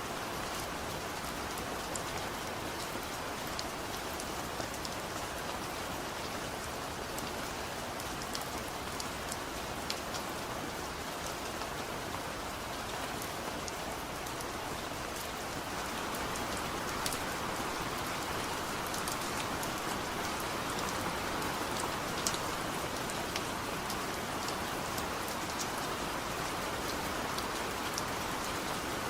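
Heavy rain falling steadily, with many scattered ticks of single drops. It grows slightly louder about halfway through.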